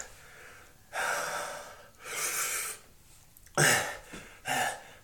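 A man breathing hard and gasping through his mouth, four heavy airy breaths with short pauses between, in reaction to the burning heat of a ghost chili pepper he has just eaten.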